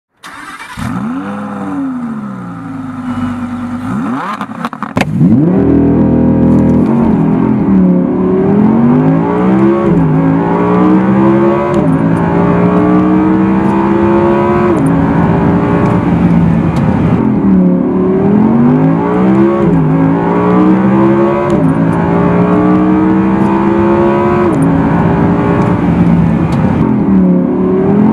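Audi R8 V10 Plus's 5.2-litre V10 engine revving lightly at first, then about five seconds in pulling hard through the gears. The engine note climbs and falls back at each gear change, every couple of seconds.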